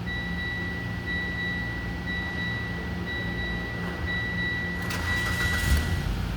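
Mitsubishi 4A92 1.6-litre four-cylinder engine running steadily at idle. Over it, a high warning beep pulses about once a second and stops shortly before the end, with a single click about five seconds in.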